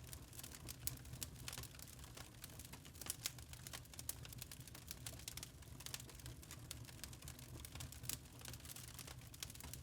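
Wood fire crackling in a fireplace: irregular sharp pops and snaps scattered over a low steady rumble of the flames.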